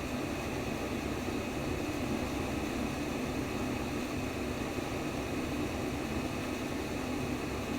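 Steady white-noise sleep sound: an even, unbroken rushing noise, fullest in its lower range, that does not change.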